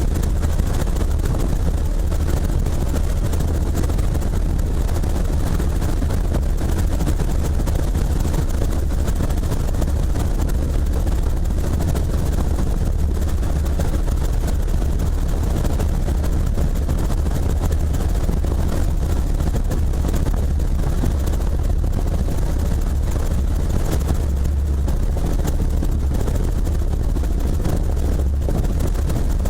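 Helicopter running steadily: a loud, unbroken low drone of engine and rotor noise.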